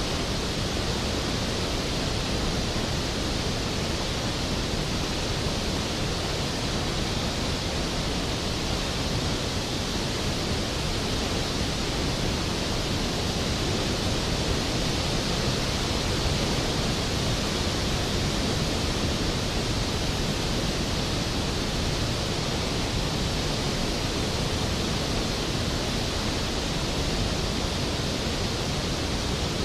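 Skógafoss waterfall: a large waterfall pouring steadily, a dense, even rush of falling water with no breaks.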